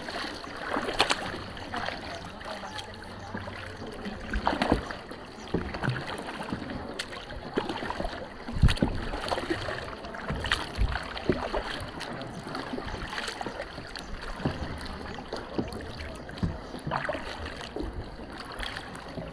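Kayak paddles dipping into the sea, with water splashing and dripping in uneven strokes.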